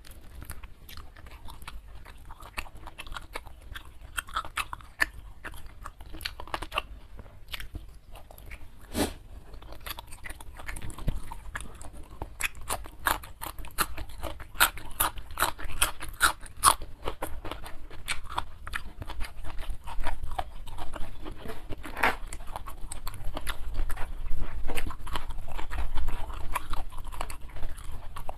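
Close-miked eating: chewing and crunching on a fried chicken wing and a raw green bean, with a dense run of sharp crunches in the middle.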